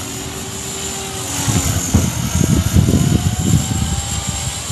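Radio-controlled 3D helicopter in flight: a steady high whine of its motor and rotor. From about a second and a half in, irregular low rumbling gusts come in as well.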